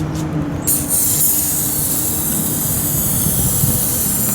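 Aerosol can of WD-40 gel chain lubricant spraying, a steady hiss that starts under a second in. A steady low hum runs beneath it.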